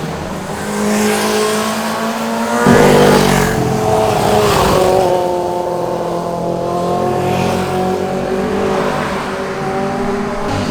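Sport motorcycle engines passing at speed. One goes by close about three seconds in, the loudest moment, its engine note falling as it passes, with more engine sound running on after it.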